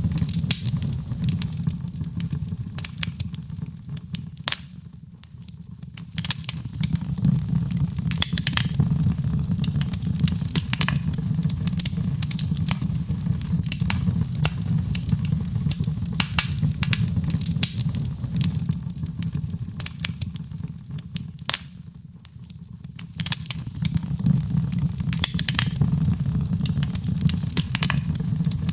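Wood fire in a fireplace crackling, with many sharp pops over a steady low rumble; it softens briefly twice.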